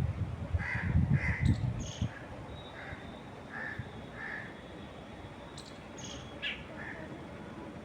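Birds calling in a series of short, evenly spaced calls, with sharper high chirps now and then. Wind gusts for the first two seconds, then dies down, and a thin steady high tone runs for about three seconds in the middle.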